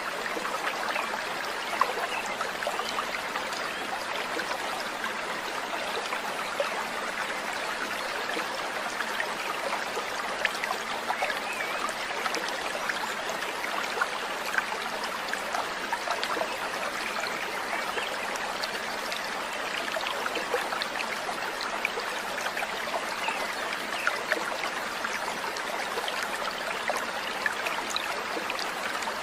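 Fast, dense songbird chirping over a steady sound of running water: an unbroken stream of quick short notes that does not let up.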